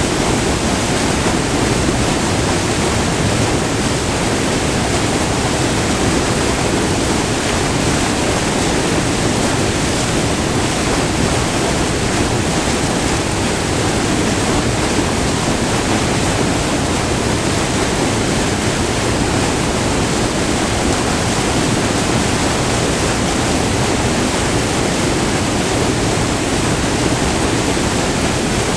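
Close-up rush of white water pouring over a short multi-tiered river waterfall, a loud, steady, unbroken roar.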